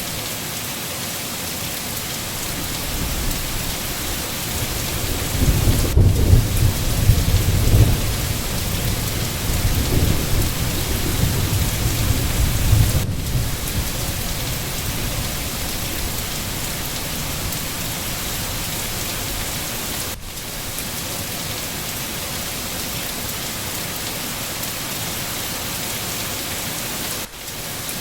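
Steady heavy rain hissing, with a low rolling rumble of thunder that builds about five seconds in and dies away around thirteen seconds in.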